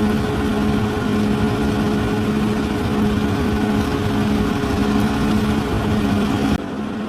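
Bulldozer's diesel engine running steadily with a constant drone. Near the end the sound drops suddenly to a quieter level.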